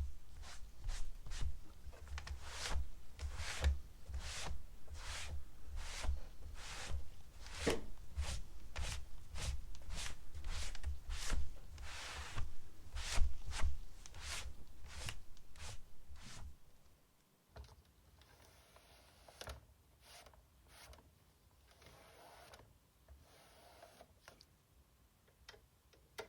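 Close-up handling noise: a run of irregular sharp clicks and knocks, about two or three a second, over low thumps. From about 17 seconds in it drops to faint, scattered clicks.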